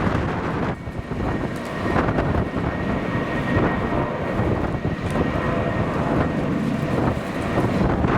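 Jet airliner engines running, with a faint steady high whine, under strong gusty wind buffeting the microphone.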